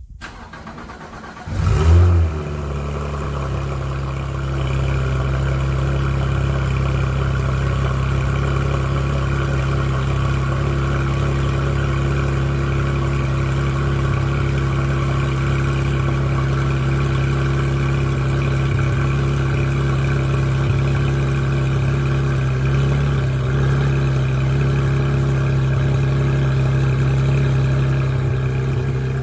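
Porsche 991.1 GT3 RS's 4.0-litre flat-six cold-starting: the starter cranks briefly, the engine catches about two seconds in with a short rev flare, then settles into a steady fast cold idle. The idle drops a little near the end.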